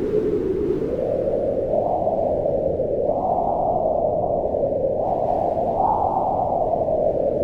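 Wind blowing steadily: a low rush whose pitch slowly rises and falls over a second or two, like gusts.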